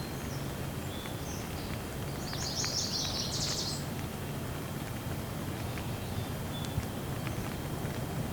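Steady rain with scattered drips. A bird calls with a short, high, rapid trill from about two to four seconds in.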